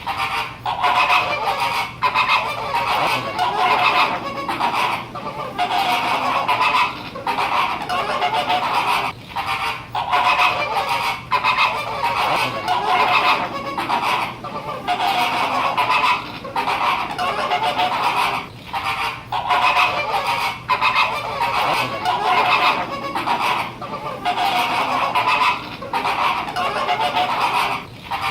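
A flock of flamingos honking, many goose-like calls overlapping in a continuous clamour with short lulls every second or two.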